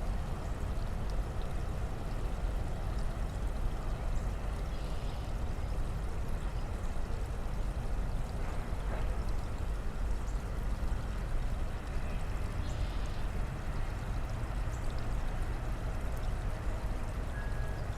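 Steady rushing of a swollen, snowmelt-fed creek: an even wash of water noise with a heavy low rumble underneath and a few faint high chirps over it.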